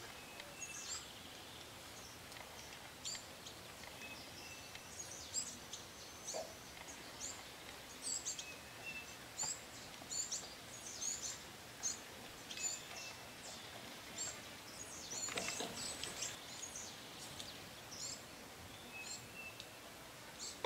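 Small birds chirping in the background, short high-pitched chirps coming repeatedly over a faint steady outdoor hiss, with a brief rustle about fifteen seconds in.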